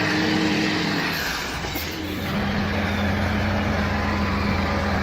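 Motor vehicle engine running steadily over road noise, its pitch shifting slightly about two seconds in.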